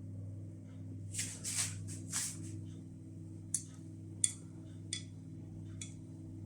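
Three short rustles, then four sharp clicks spaced well apart, over a steady low electrical hum.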